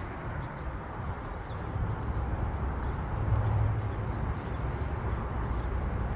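Outdoor background noise: a steady hiss over a low rumble, the rumble swelling briefly about three seconds in.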